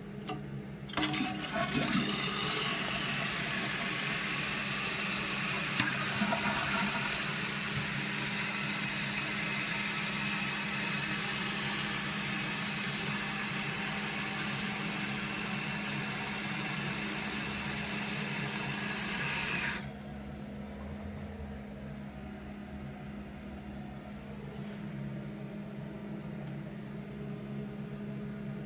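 A 1995 Mansfield Alto toilet being flushed: a click about a second in, then loud rushing water for about eighteen seconds. The noise cuts off sharply about twenty seconds in as the tank's fill valve closes, leaving a fainter steady hiss.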